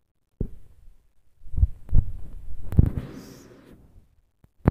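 Fireworks going off: a low boom just under half a second in, a run of several booms about one and a half to three seconds in, and another boom near the end.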